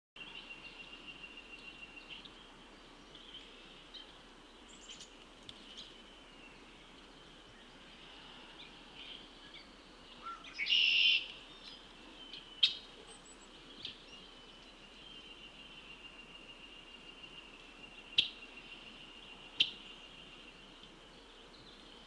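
Birds calling outdoors in spring woodland: a louder harsh call of about a second about halfway through, then several short sharp chips, over a steady high-pitched trill.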